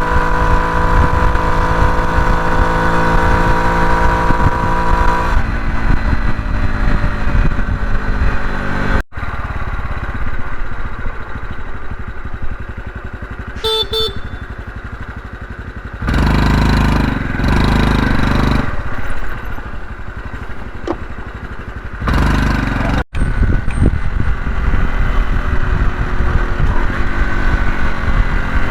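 Honda CT125 Hunter Cub's single-cylinder four-stroke engine running under way, its pitch dropping as it slows and rising again near the end. Strong wind buffets the microphone in heavy low rumbling gusts, with a short beep in the middle.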